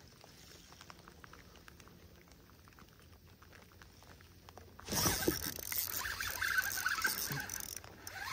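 Light rain pattering on the creek and the kayak in many faint, fine ticks. About five seconds in, a much louder noisy rushing sound cuts in suddenly and runs on with a brief dip near the end.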